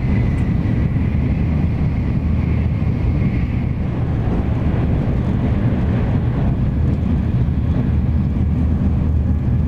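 Steady low rumble of a Hikari Shinkansen bullet train running at speed, heard from inside the passenger car, with a faint high whine in the first few seconds.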